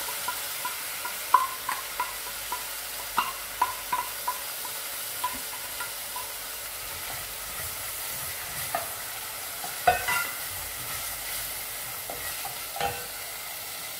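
Rendang spice paste sizzling as it fries in oil in a stainless steel Saladmaster pot, while a wooden spatula scrapes it out of a small bowl with repeated light clinks against the bowl and pot, several a second at first. A couple of louder knocks later as the paste is stirred.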